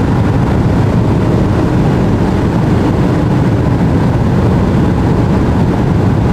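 BMW 335i (F30) turbocharged straight-six pulling hard at high speed during a run toward 250 km/h: a steady, loud engine drone under a dense rushing noise, with no gear change.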